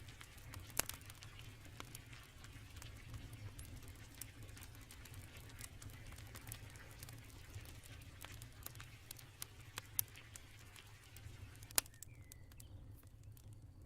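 Faint crackling of a wood campfire: scattered small pops and ticks over a low hum, with two sharper pops near the end. A thin, faint high chirping tone comes in near the end.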